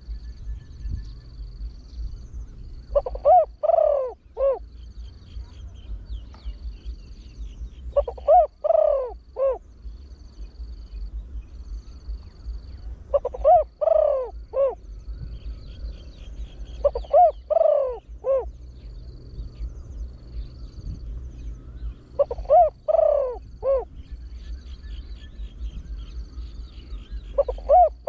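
Spotted dove calling with a deep voice: short phrases of about four deep coos, repeated every four to five seconds, six times. A faint high chirping repeats steadily underneath.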